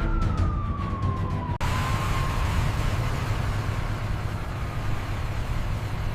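An emergency-vehicle siren wailing, its pitch falling slowly, breaks off abruptly about a second and a half in. After that comes a steady rush of noise over a low rumble, with the siren faint beneath it.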